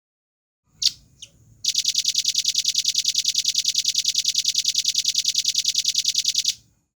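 Velvet-fronted nuthatch calling: two sharp high notes, then a fast, even, high-pitched trill of about ten notes a second that lasts about five seconds and stops abruptly.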